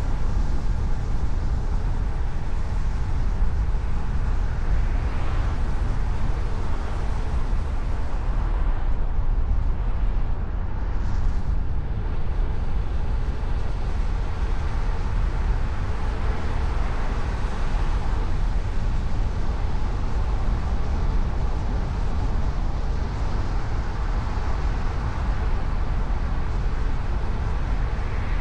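Car driving at a steady pace: continuous road and engine noise, deepest at the low end and unbroken throughout.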